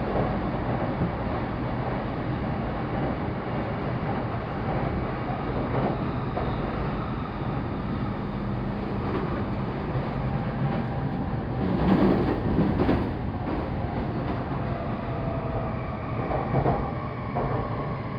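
Running sound inside a Saikyo Line commuter train: the steady rumble of wheels on rail. About twelve seconds in there is a brief burst of louder clacking. Near the end a faint whine falls in pitch.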